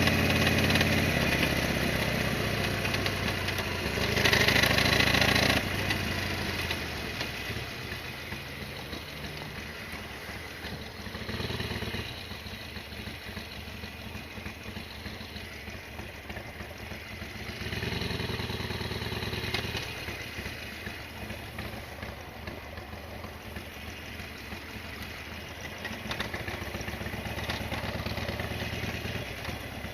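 Harley-Davidson Sportster XL1200R's air-cooled V-twin engine running, loudest at first and then easing off. The engine sound swells up again briefly about four times.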